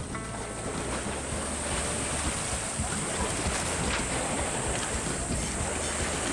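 Wind rushing on the microphone over water noise, with a steady low drone underneath.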